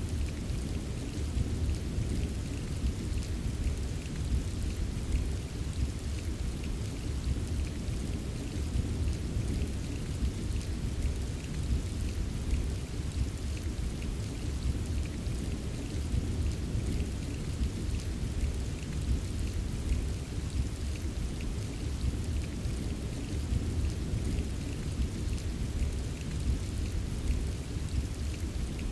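Steady rain ambience: a constant wash of rain with a heavy low rumble underneath and scattered drop ticks on top, even throughout.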